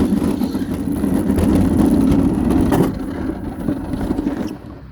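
A scooter's motor running under way as it is ridden off, the sound easing about three seconds in and dropping again near the end.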